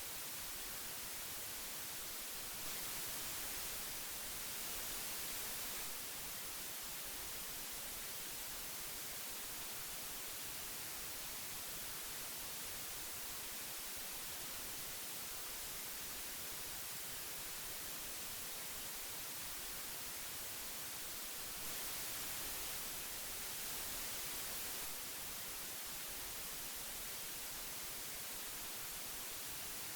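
Old magnetic tape hiss: a steady, even hiss strongest in the highs, swelling slightly louder twice, about three seconds in and again about twenty-two seconds in.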